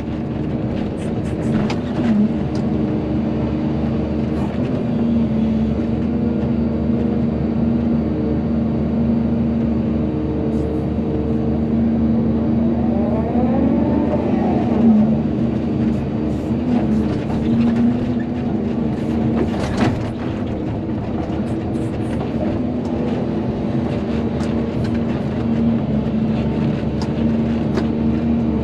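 Volvo EC220D excavator's diesel engine running steadily under working load, its pitch rising and falling once about halfway through. Occasional short clanks come through over the engine.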